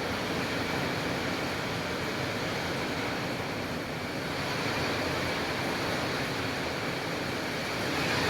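Rain falling in strong wind: a steady, even rushing noise with no separate drops or gusts standing out.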